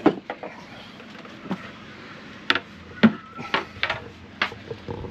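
Scattered knocks and clatter of gear being handled and set down, about eight short taps spread irregularly, the sharpest about two and a half and three seconds in.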